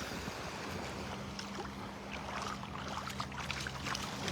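Shallow seawater lapping and splashing, with many small crackling splashes throughout. A faint steady low hum comes in about half a second in.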